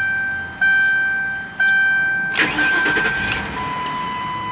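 Warning chime of a 2006 Lincoln Town Car ringing about once a second, then the 4.6-litre V8 cranks and fires about two and a half seconds in, loud for about a second. A steady single-pitch warning tone sounds near the end.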